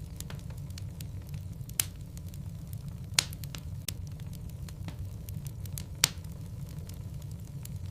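Wood logs burning in a fireplace: a steady low rumble of flame with irregular crackles and sharp pops, three of them louder than the rest.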